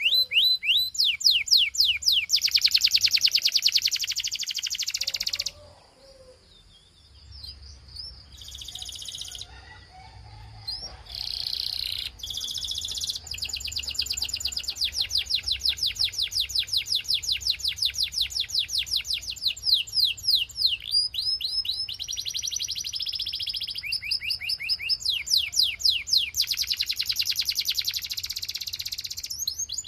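Belgian canary singing in long rolling trills of rapid, repeated falling notes. The song breaks off about five seconds in, gives only a few short phrases for several seconds, then goes on with long trills.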